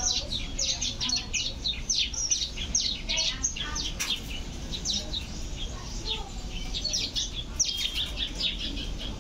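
Small birds chirping, with a rapid, overlapping stream of short, high, downward-sweeping chirps, several a second.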